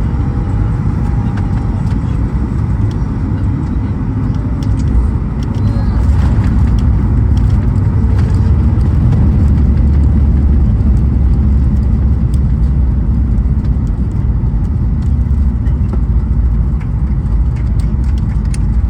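Cabin noise inside a Boeing 737 MAX 8 during landing: a steady deep rumble of the CFM LEAP-1B engines and airflow, growing louder about five seconds in and staying up.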